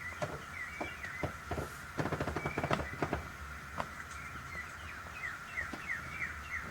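Wood fire crackling, with a dense run of cracks about two to three seconds in, while birds chirp in short falling notes, several in a quick series near the end.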